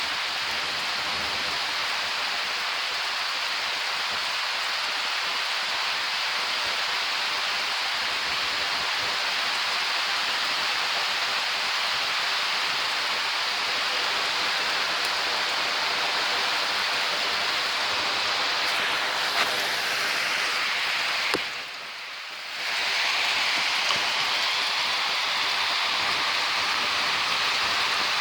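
Steady rain from a rainstorm falling. About 21 seconds in there is a sharp click, and the rain sound drops for about a second before coming back.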